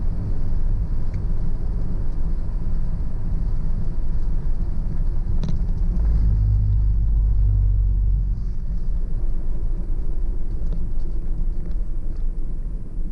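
Car driving on a back road: steady low road and engine rumble. A single click comes about five and a half seconds in, then a heavier low rumble for about two seconds.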